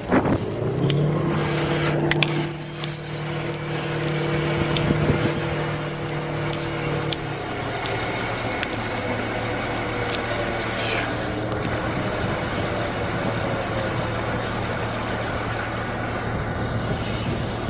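Engine running with a steady pitched hum and a high whine; about eight seconds in the whine stops and the hum drops lower and a little quieter.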